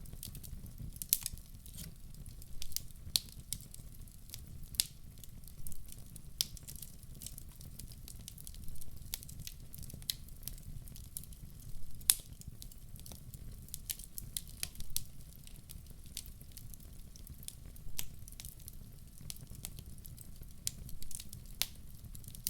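Wood fire in a fireplace crackling, with irregular sharp pops and snaps over a steady low rumble; the loudest pop comes about halfway through.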